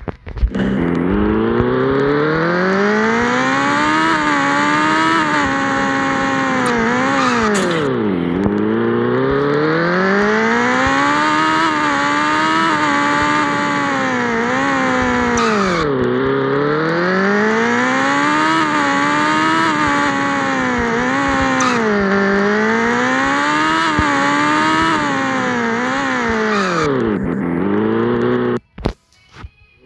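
Yamaha XJ6 motorcycle's inline-four engine, run through an open exhaust with no muffler, riding loudly through traffic. The revs climb and fall repeatedly as it accelerates and eases off, dipping low three times. The sound cuts out briefly near the end.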